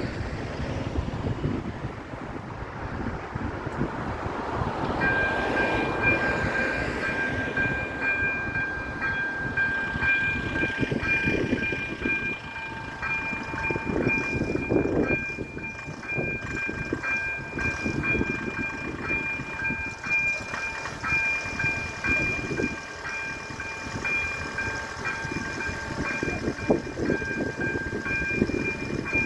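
A level crossing's electronic warning bells (AŽD ZV-02) start about five seconds in and ring on as a steady, pulsing high tone. A train on the line makes a fluctuating rumble underneath.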